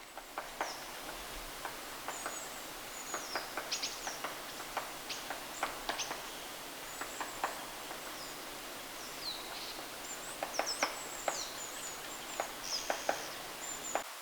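White-backed woodpecker pecking and tapping at bark while foraging, a series of irregular sharp taps, some in quick clusters. Thin, high-pitched short calls of small birds come in between.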